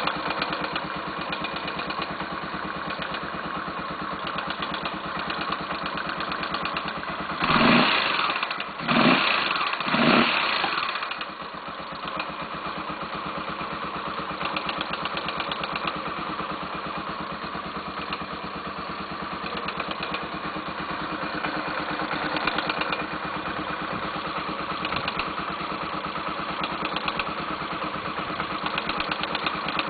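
Honda XR 250 Tornado's single-cylinder engine idling with a fast, even tapping, blipped three times in quick succession about a quarter of the way in, then settling back to idle. The owner says the tapping comes only when the engine is cold and at low revs, and suspects the valve lifters (tappets) rather than the valves.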